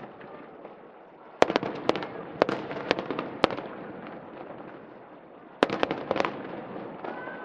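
Aerial fireworks bursting over a river, in two volleys of sharp bangs and crackles, the first about a second and a half in and the second near six seconds, each led by its loudest bang, over the steady murmur of a crowd of onlookers.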